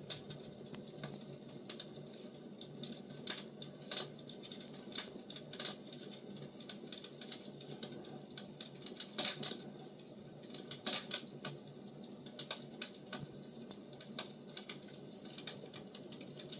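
Firewood burning: irregular crackles and sharp pops over a steady low hiss of the fire, with a few louder pops scattered through.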